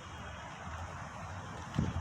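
Steady low outdoor rumble of wind or distant traffic, with a single dull thump near the end.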